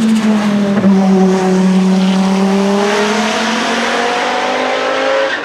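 Audi 200 Quattro Trans-Am's turbocharged 2.1-litre five-cylinder engine held at steady high revs, its note dipping slightly about a second in and then slowly climbing again.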